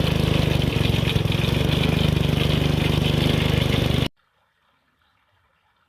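Go-kart's small engine running steadily at an even speed, then cutting off abruptly about four seconds in.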